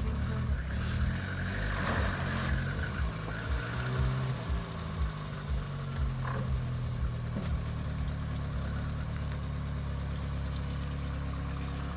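Lada Kalina sedan's engine running at low revs with small rises in pitch as it moves slowly under load, easing a boat trailer at the water's edge.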